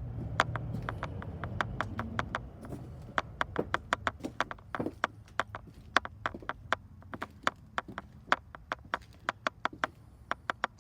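Footsteps on a hard floor: a run of sharp, irregular clicks, about four a second, with handling rumble in the first couple of seconds.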